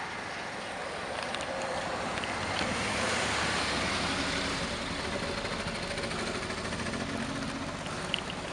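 Vehicle and wind noise on a snowy road: a steady rush that swells about three seconds in and eases off, with a faint low engine hum under it.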